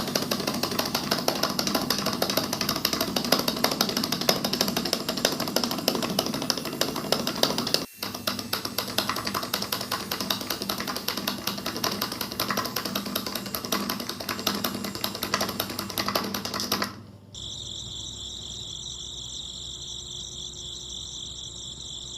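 Small electric motor of a miniature DIY flour mill running with a fast, even mechanical rattle; after a cut about three-quarters through, a quieter steady high-pitched whine with a low hum.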